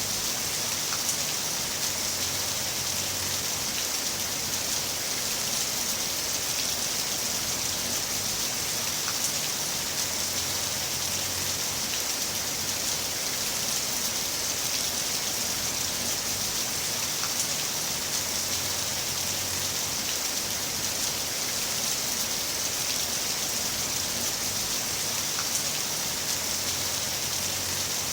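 Heavy rain falling steadily, an even hiss with occasional distinct drop strikes.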